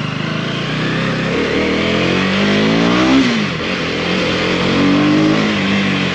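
KTM Duke 250's 249cc single-cylinder engine pulling under acceleration: the revs climb, drop sharply about three seconds in as it shifts up a gear, then climb again before easing off near the end.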